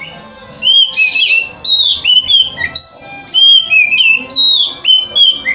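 Oriental magpie-robin (kacer) song: a loud, fast run of varied whistles and slurred rising and falling notes, starting about half a second in. It is played as lure song to rouse a male kacer into display and song.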